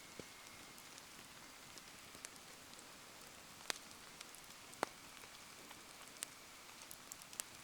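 Rain falling steadily with a bonfire crackling: an even hiss broken by scattered sharp pops and ticks, two louder pops near the middle.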